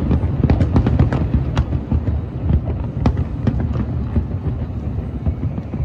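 Fireworks going off: a rapid, irregular string of sharp pops and cracks over a steady low rumble.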